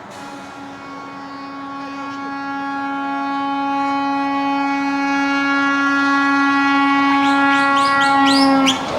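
Truck air horn sounding one long held blast on a single steady note, growing louder and then cutting off abruptly near the end. Over its last two seconds comes a quick run of short rising chirps, about four a second.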